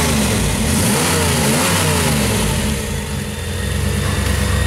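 A 1987 Pontiac Trans Am GTA's V8 engine is revved several times, its pitch rising and falling, then settles into a steadier run. A steady low beat of music comes in near the end.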